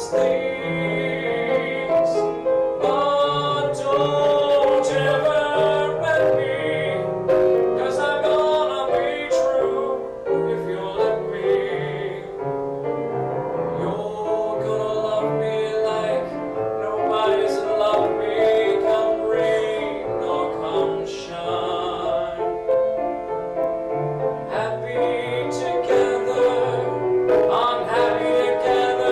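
A man singing a slow ballad with piano accompaniment, performed live.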